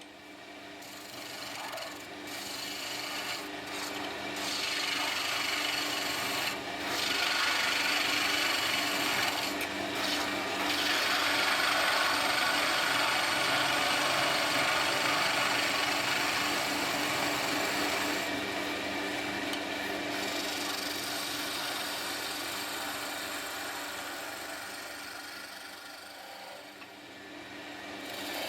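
A tool scraping and abrading a wooden handle, a continuous rough rubbing that swells and eases, loudest in the middle and fading near the end, over a steady low hum.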